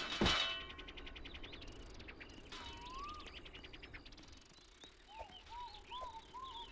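An anvil struck once just after the start, ringing out and fading over about a second. Birds chirp repeatedly afterwards.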